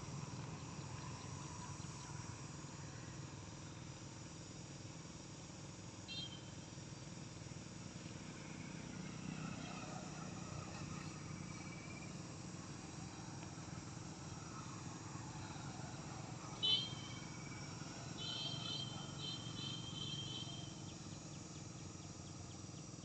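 Steady outdoor insect trilling. A short high chirp comes about six seconds in. A louder, sharp chirp near seventeen seconds is the loudest moment, and a run of repeated high chirps follows it for a few seconds.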